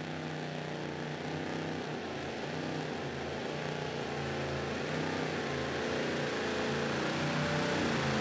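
Engine of a super modified two-wheel-drive pulling truck (supercharged Hemi) running hard, growing steadily louder, with its pitch wavering near the end.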